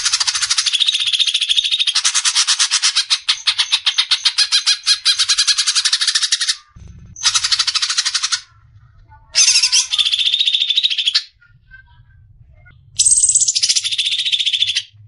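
Cucak ijo (green leafbird) giving its fast, chattering besetan song. The first is a long run of rapid high notes lasting about six seconds, followed by three shorter bursts with brief pauses between them.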